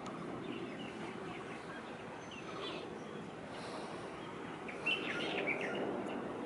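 Small birds chirping over a steady hum of city background noise, with a louder run of chirps about five seconds in.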